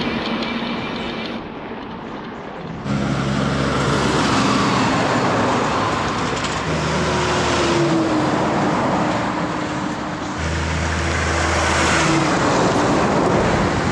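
Motor vehicles passing close by on a highway, tyre and engine noise loud, with the engine tone dropping in pitch as one goes by. The noise rises suddenly about three seconds in, and a second vehicle passes near the end.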